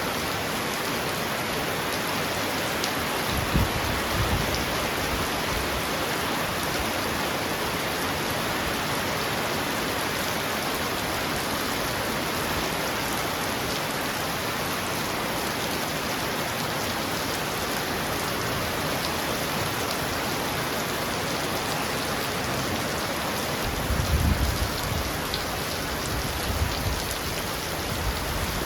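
Heavy rain falling steadily on a roof, a dense even hiss. There are brief low rumbles about four seconds in and again near the end.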